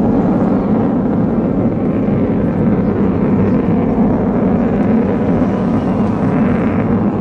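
Loud, steady jet noise from the Avro Vulcan's four Rolls-Royce Olympus turbojets as the bomber flies past.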